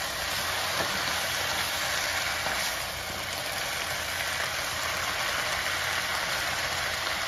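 Vegetables sizzling in a hot stir-fry pan over high heat as they are stirred and turned with a spatula: a steady frying hiss with a few light scrapes.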